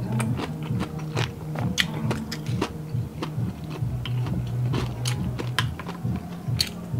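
Close-miked crunching and chewing of crispy deep-fried mussels, sharp irregular crunches several times a second, over low steady background music.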